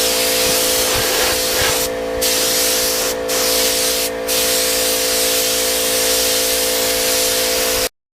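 Air spray gun hissing as silver basecoat is sprayed onto a motorcycle fuel tank, with a steady hum underneath. The hiss breaks off briefly three times as the trigger is let go, then cuts off suddenly near the end.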